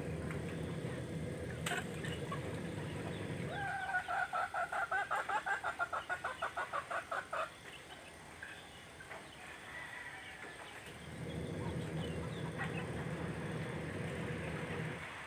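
Indonesian village chickens (ayam kampung) calling: a rapid run of about twenty clucks at roughly five or six a second, starting about four seconds in and lasting three to four seconds. A low rumble sits under the sound before and after the run of clucks.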